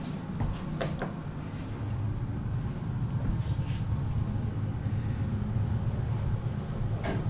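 Elevator car descending: a steady low rumble and hum of the moving cab, with a couple of short clicks about a second in.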